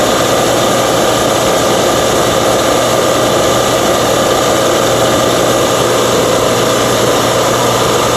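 Steady running of a motor-driven machine, a constant hum under a loud, even hiss.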